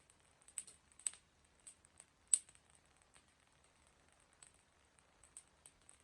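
Wood campfire crackling, with irregular sharp pops and snaps; the loudest snap comes a little past two seconds in.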